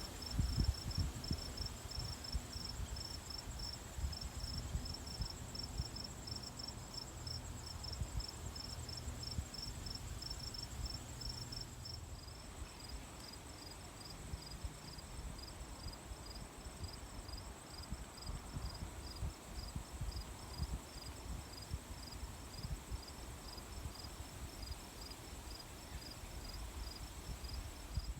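Crickets chirping: one steady high trill and another high chirp pulsing about two to three times a second, over an uneven low rumble.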